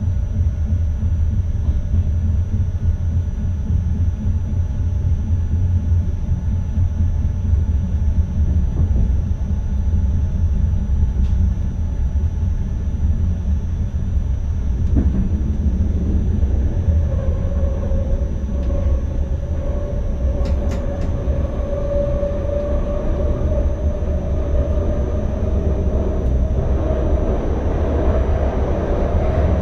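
Cab-interior rumble of an NS ICM electric multiple unit running along the track. From about halfway a whine comes in and rises slightly in pitch toward the end, over a faint steady high whine.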